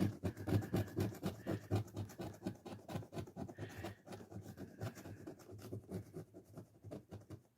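Scratching off a lottery scratch ticket: quick repeated strokes of a scraper rubbing the coating off the cardstock, growing softer toward the end.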